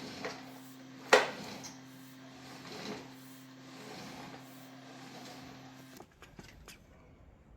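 A steady low hum with a single sharp knock about a second in. The hum cuts off suddenly near the end, followed by a few light clicks.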